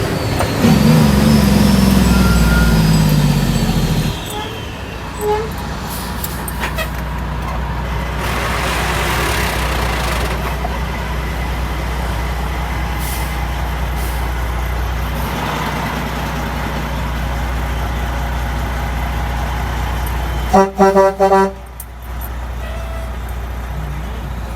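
Heavy truck's diesel engine running, loud with its pitch sliding for the first few seconds, then settling to a steady low drone. About twenty seconds in, a horn gives a few quick, loud toots.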